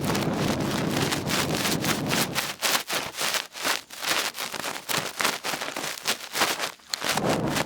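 Cotton ear swab rubbing and scratching in the ear close up to the microphone: a rapid run of dry scraping strokes, about four a second, with a short pause near the end.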